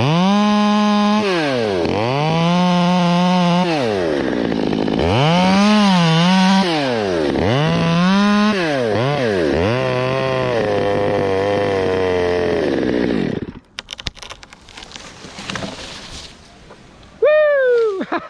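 Stihl 200T top-handle two-stroke chainsaw revved hard in repeated bursts, its pitch dropping between each, as it cuts wood. About 13 seconds in it drops to a lower, steadier note and stops. Scattered clatter follows, then a short, loud, falling squeal near the end.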